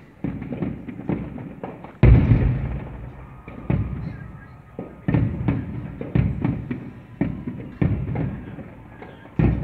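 Fireworks display: aerial shells bursting in a steady string of booms, about a dozen of them, each fading out over a second or so. The loudest and deepest boom comes about two seconds in.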